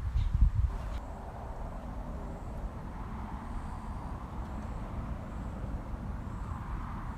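Steady low outdoor rumble, with a few soft thumps in the first second.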